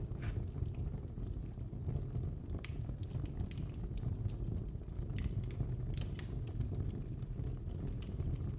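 Wood fire crackling, with scattered sharp pops and snaps every second or so over a steady low rumble.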